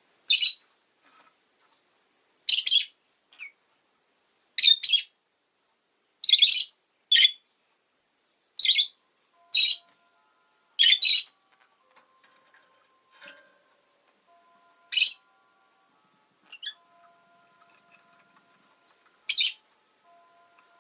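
Rosy-faced lovebird giving short, shrill chirps, about a dozen single and doubled calls at irregular intervals, with a longer pause in the middle.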